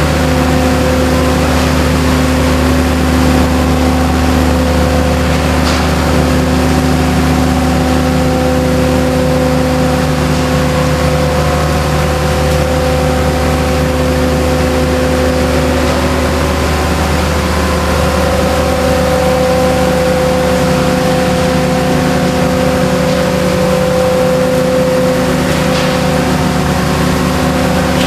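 Tunnel-cleaning rail vehicle's machinery running steadily under load: a constant engine-and-fan drone with several fixed tones that holds unchanged.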